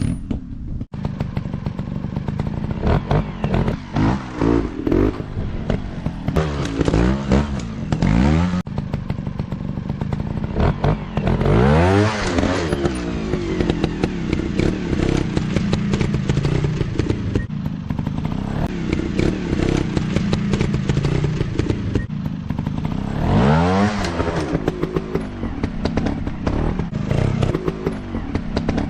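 Dirt bike engines running and revving. The pitch climbs and drops again and again, with several hard rises in engine speed, the clearest about 12 and 24 seconds in.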